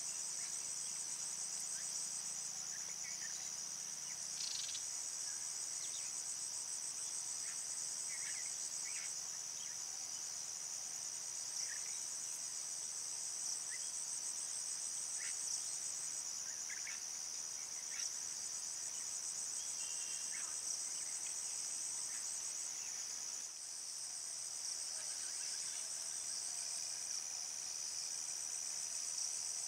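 Dense chorus of insects trilling, a continuous high-pitched shimmer that never lets up, with scattered short chirps over it.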